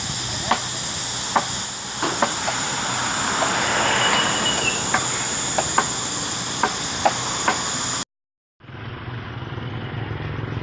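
Irregular sharp knocks, like hammer blows during house repair, over a steady high hiss and insect-like drone. About eight seconds in the sound cuts out for half a second, then a steady low rumble takes over.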